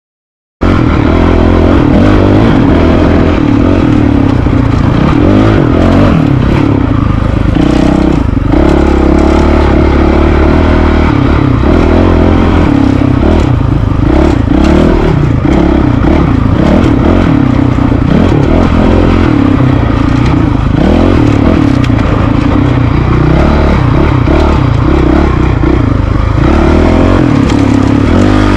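Honda CRF450RL's 450 cc single-cylinder four-stroke engine running as the dirt bike is ridden off-road, the revs rising and falling, with frequent knocks and rattles from the ride. It starts abruptly about half a second in.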